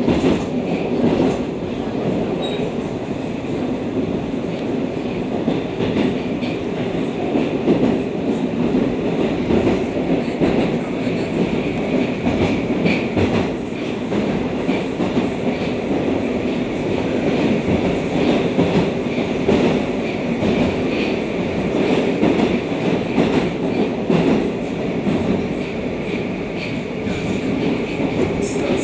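Moscow Metro 81-760/761 "Oka" train running at speed through a tunnel, heard from inside the car: a steady loud rumble of wheels and running gear with scattered clicks.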